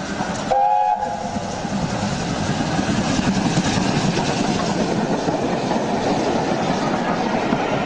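A Class 170 diesel multiple unit running past at speed: a steady loud rumble and rail clatter. A short two-note tone sounds about half a second in.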